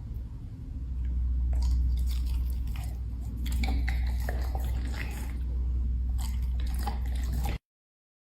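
Black Labrador chewing and crunching treats with irregular crisp bites, over a steady low hum. The sound cuts off suddenly near the end.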